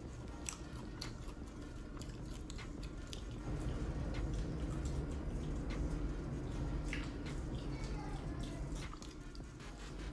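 Close-up mouth sounds of eating fried chicken wings: biting and chewing, with scattered crisp clicks and smacks. The chewing is louder through the middle few seconds.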